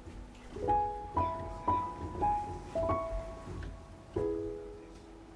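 Background music: a piano playing a short melody of single notes, about two a second, then a held chord about four seconds in.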